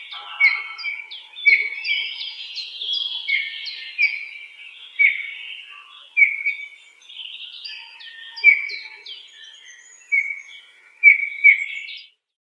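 Birds chirping: many short, high chirps that slide down in pitch, overlapping and repeating every half second or so, then stopping abruptly near the end.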